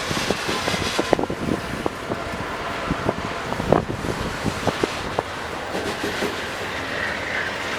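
Freight train wagons rolling past on the track, with irregular clanks and knocks from the wheels and couplings over the first five seconds, then steadier rolling noise.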